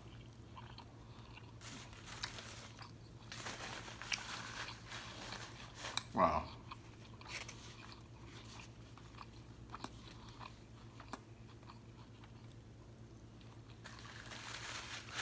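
Close-miked chewing of a mouthful of steak street taco: wet mouth sounds in spells, busiest in the first half and again near the end, with a quieter stretch between. A short 'wow' about six seconds in.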